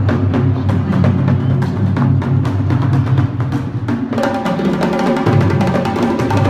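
A drumming ensemble playing live, many drums beating a fast, dense rhythm with deep bass drum tones. About four seconds in, a steady higher pitched tone joins over the drums.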